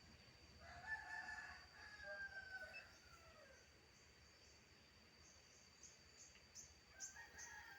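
A rooster crowing faintly once, about a second in, the call falling away at its end; a second call starts near the end.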